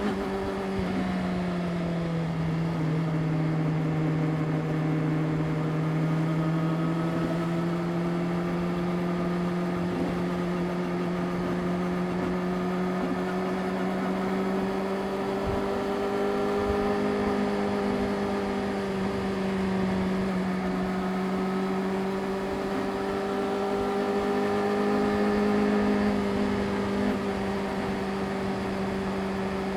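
Yamaha YZF-R6 inline-four engine running at steady, fairly high cruising revs. The pitch holds nearly level, with gentle rises and dips and a slight climb in the second half.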